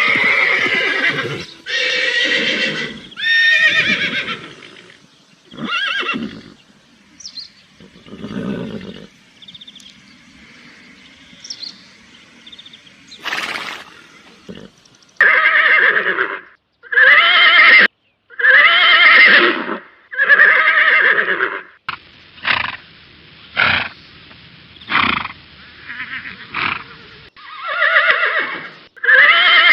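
Horse neighing and whinnying repeatedly, with a run of about four loud neighs a little past halfway through. Short sharp sounds come between the calls near the end.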